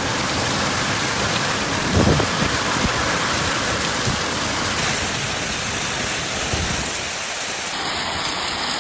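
Heavy storm rain pouring down in a dense, steady rush, with a few sharper knocks about two seconds in.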